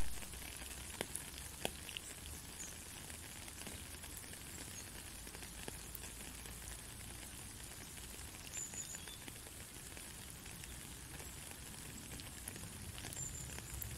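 Steady rain falling on a puddle and wet ground: a fine, even patter with scattered louder single drops.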